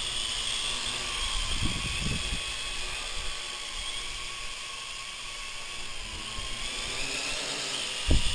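MJX X101 quadcopter in flight, its brushed motors driving the props through its old plastic gears with a steady high whine and whir that drifts up and down in pitch. Low wind buffets on the microphone about two seconds in and again near the end.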